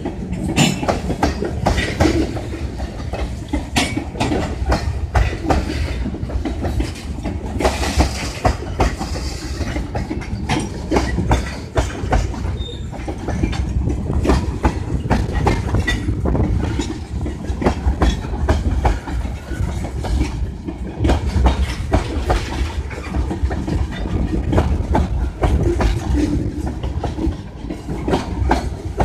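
Freight train of tank cars rolling past at close range: steel wheels clacking over rail joints on a steady low rumble.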